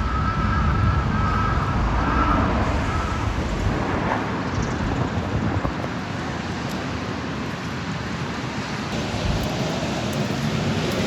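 Steady rain, with a vehicle's low rumble that fades out about four seconds in.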